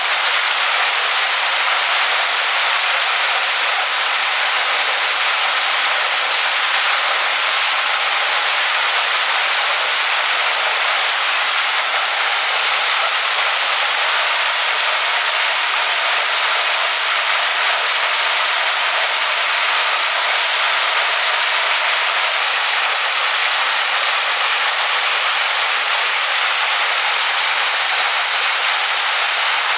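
Waterfall pouring onto rocks: a steady, unbroken rush of water, mostly bright hiss with almost no deep rumble.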